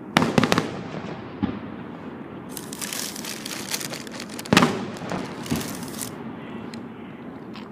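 Aerial fireworks going off: a sharp bang followed by a quick run of crackles at the start, a stretch of dense crackling about two and a half to four seconds in, then another loud bang a little past halfway, with a few smaller pops scattered between.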